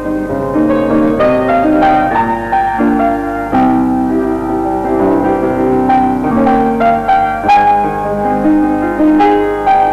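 Background piano music, a melody of notes struck in quick succession over sustained chords.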